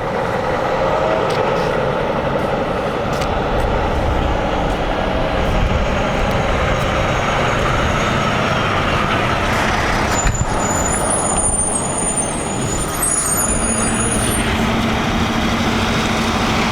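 A heavy truck running close by, with a high-pitched brake squeal about ten seconds in as it slows, then settling into a steady low engine hum.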